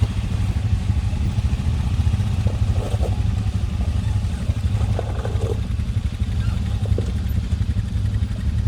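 Quad bike engine running steadily at low revs, a low drone, with a few faint knocks and clatters.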